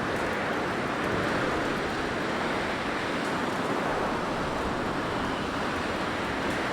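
Blizzard wind blowing steadily, a dense rushing noise that swells and eases slightly.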